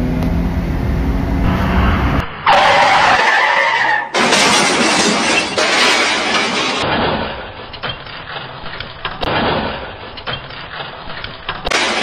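Added sound effects of vehicle noise, crashing and breaking glass, edited together so the sound changes abruptly several times.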